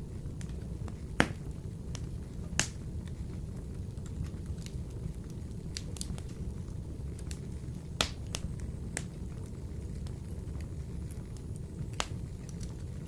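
Wood fire burning in a wood-burning stove: a steady low rumble with scattered crackles and four louder sharp pops.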